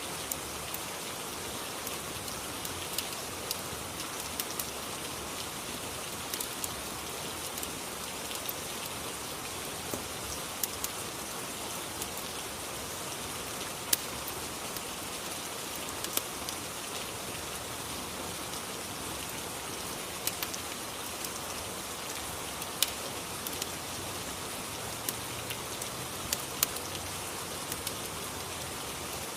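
Steady rain, an even hiss, with scattered sharp ticks and pops spread through it.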